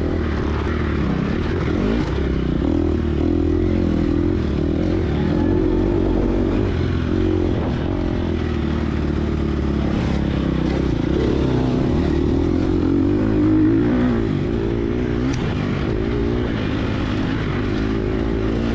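Gas Gas EX250F's 250 cc four-stroke single-cylinder dirt bike engine running hard through a race course, its pitch rising and falling with the throttle and gear changes.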